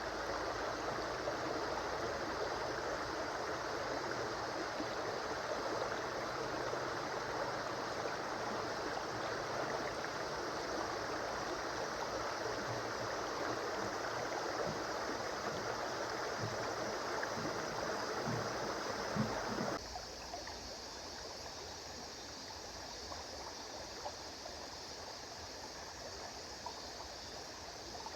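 River water flowing and rushing steadily, with a few low gurgles. About twenty seconds in it abruptly turns quieter and thinner, as a softer stretch of flow.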